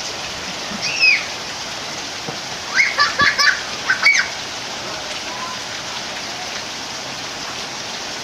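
Steady heavy rain pouring down and splashing on surfaces. A few short high-pitched cries cut through it, one about a second in and a quick cluster around the middle.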